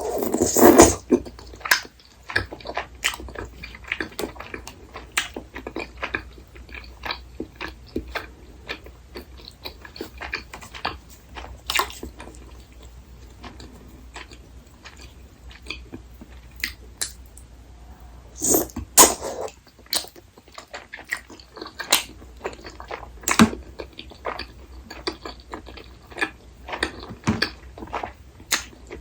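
Close-miked eating sounds of a person chewing and biting tteokbokki. There are many small, sharp, wet clicks, with louder bursts right at the start and about two-thirds of the way through.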